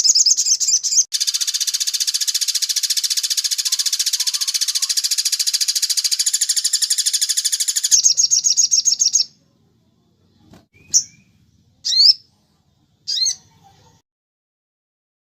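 Sogon birdsong of the kind used as a tutoring track: a fast high trill, then a long dense rattling trill lasting about seven seconds and another short trill. After that come a few short separate chirps that slide in pitch.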